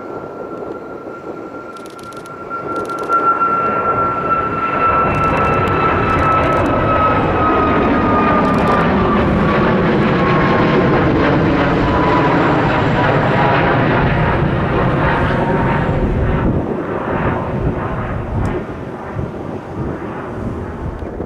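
Boeing 737 MAX 8's CFM LEAP-1B jet engines departing and passing by. A steady engine whine slowly drops in pitch while the rushing engine noise swells about three seconds in, holds, and eases off near the end.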